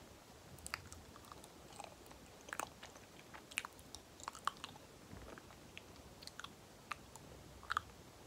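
Close-up eating sounds of banana being chewed: irregular wet, sticky mouth clicks and smacks.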